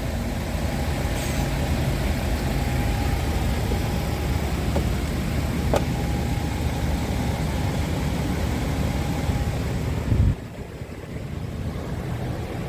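Scania R truck's diesel engine idling steadily, then cutting off abruptly about ten seconds in, leaving a quieter background.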